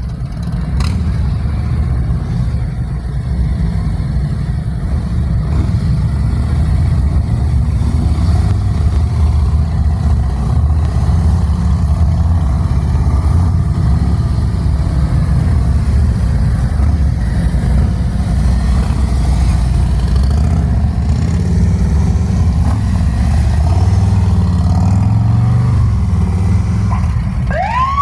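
Police motorcycle engines running with a steady low rumble. Near the end a siren starts up, rising in pitch.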